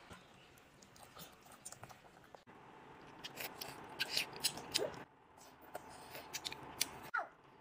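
Crunchy food being bitten and chewed close to the microphone: a string of sharp crunches and crackles, thickest in the second half.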